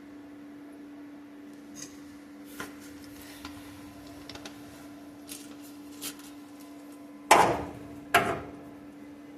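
Tools and metal being handled: a few light clicks and taps, then two loud knocks about a second apart that ring briefly, over a steady hum.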